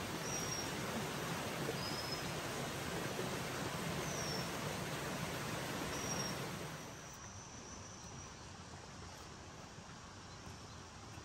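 Steady rushing noise with a few short, high, falling bird chirps over it. The rush drops away about seven seconds in, leaving a fainter high thin tone.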